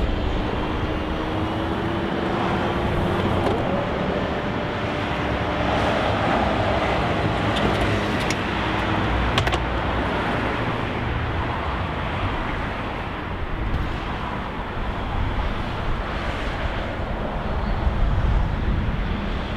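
Aston Martin Vantage's power soft top closing with the car switched on: a steady rush of car and street noise, with a faint whine from the top's motor.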